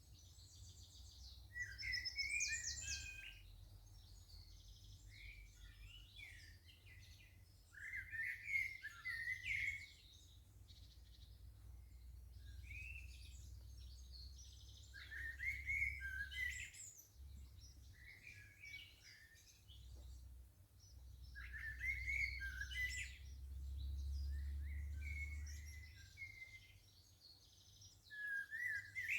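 Garden songbirds singing: short, warbling phrases repeat every few seconds over a steady low background rumble.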